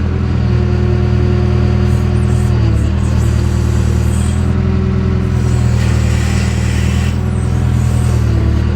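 JCB backhoe's diesel engine running steadily, its note dipping briefly twice, about a third of the way in and near the end, with a short higher hiss about two-thirds through.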